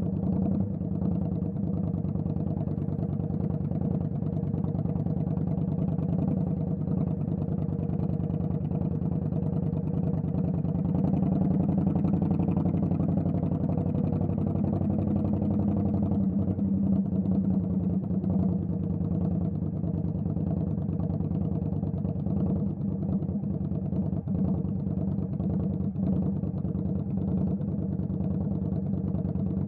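Indian Scout Bobber's V-twin engine running steadily at low revs, its pitch rising and falling gently once around the middle.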